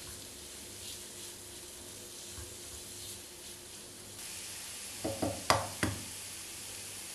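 Food sizzling in a pan, the hiss growing louder about four seconds in, with a few quick knocks near the end, the loudest in the middle of them.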